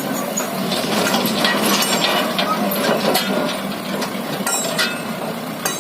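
A string of sharp metallic clinks and knocks over the steady hum of a running engine.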